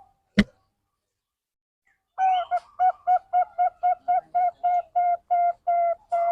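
A sharp click, then after a pause a zebra dove (perkutut) cooing a rapid series of short notes at one steady pitch, about four a second.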